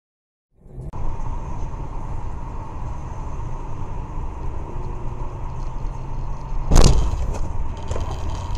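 Car driving with a steady road and engine rumble. About seven seconds in there is one loud sudden bang, a collision impact, followed by a few smaller knocks.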